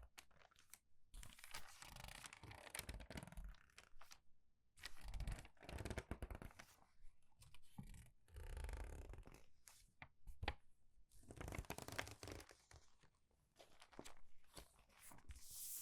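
Crinkled, crumpled paper pages turned quickly one after another and squeezed, each turn a crackling, crinkly rustle, with short pauses between them.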